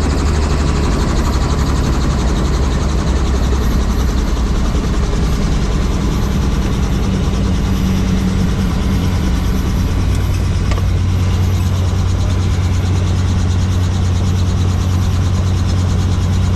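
Helicopter running: steady turbine and rotor noise with a fast, even chop from the blades. Its low hum shifts slightly higher in pitch about ten seconds in.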